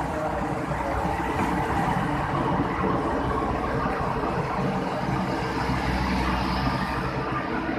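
Passenger train running: a steady low engine hum under a rolling, rumbling noise, with a faint high whine coming in about five seconds in.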